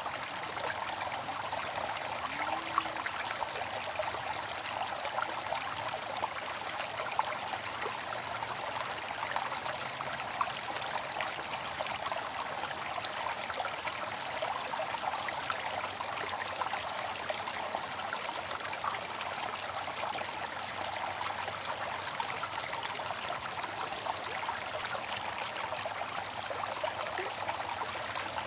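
Water fountain running steadily, its falling water an even, unbroken splashing.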